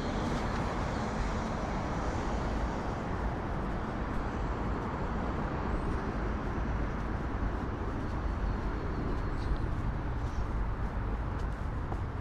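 Steady city road traffic noise, with an engine hum that fades in the first couple of seconds and a few short, high chirps.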